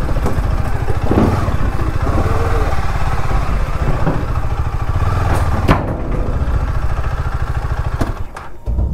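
KTM Duke 250's single-cylinder engine running at low speed as the bike rolls slowly, with several sharp knocks and clatter from the tyres crossing a wet wooden gangway onto a steel ferry deck. The engine beat drops away near the end.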